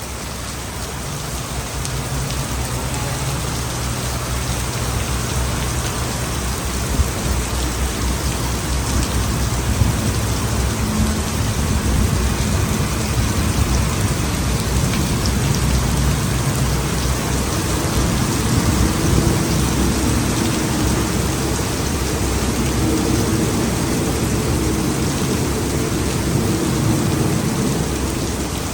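Heavy rain pouring down steadily. Underneath it a low engine hum grows a little louder and shifts higher in pitch through the second half: a diesel train running by.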